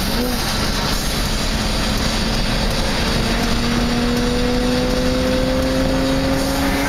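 BMW E30 engine and road noise heard from inside the car under acceleration, the engine note rising slowly and steadily in pitch. The note breaks off suddenly near the end, as on a lift-off or gear change.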